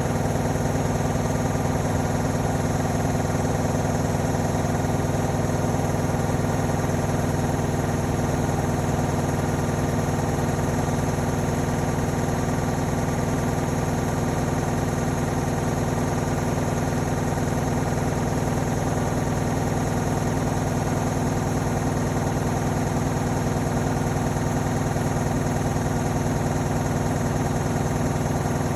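Indesit Innex BWE 91496X washing machine running with its drum spinning steadily: a constant machine hum with several steady tones and no pauses.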